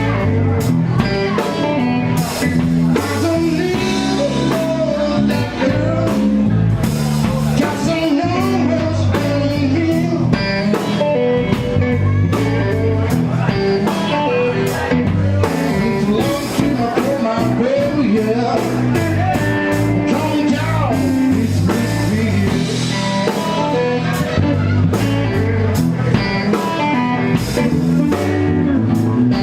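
Blues band playing: electric guitar lines over bass and a drum kit keeping a steady beat, with no vocal line yet.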